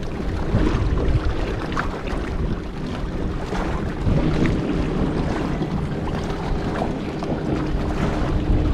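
Wind buffeting the microphone, with water lapping against a kayak, in a steady rush.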